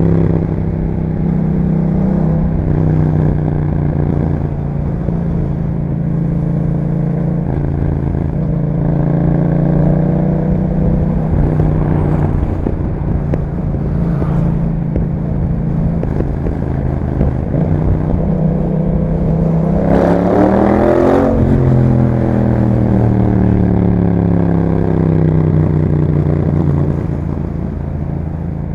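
Yamaha MT-07's parallel-twin engine running through an Akrapovic exhaust while riding, with a sharp rise in revs about twenty seconds in, after which the engine speed falls away.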